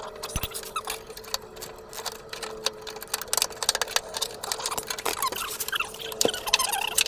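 Ratchet wrench clicking in quick, uneven runs as the fuel tank strap bolts are run in, over a faint steady hum.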